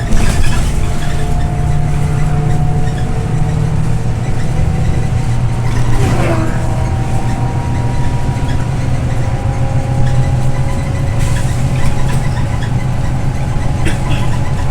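Scania OmniLink I bus under way, heard from inside: its diesel engine runs with a steady low drone over road noise, with thin whining drivetrain tones that drift slowly in pitch. A brief falling squeak comes about six seconds in.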